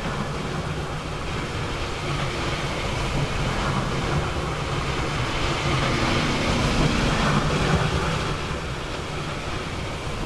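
A train passing by, its rolling noise building to a peak about three-quarters of the way through and then fading.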